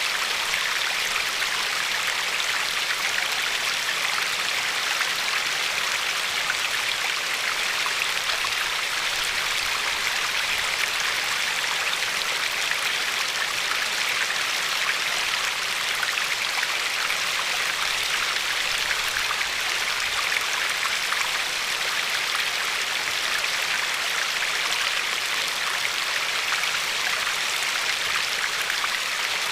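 River water flowing and lapping over a pebbly shore, a steady hiss with fine bubbling and splashing.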